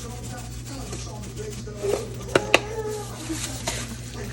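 Two quick, sharp clicks a moment apart about halfway through, from handling a garlic powder container, over low steady kitchen room noise.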